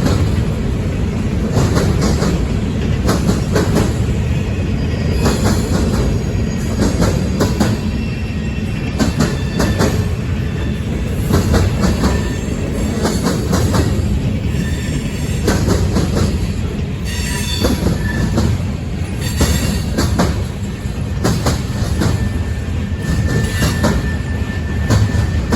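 Freight train rolling past, a steady low rumble with many sharp clicks as the wheels cross rail joints and brief high squeals from the wheels against the rails.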